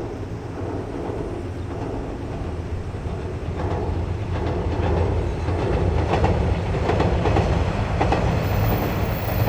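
Diesel tourist train running past: a low engine drone, with wheels clacking over rail joints from about a third of the way in, the clacking growing louder as the train draws near.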